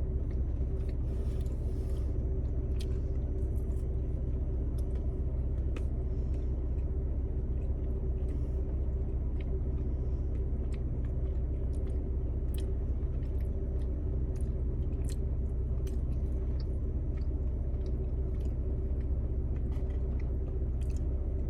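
Steady low hum of an idling car heard inside the cabin, with faint chewing and small wet mouth clicks of someone eating cheesecake.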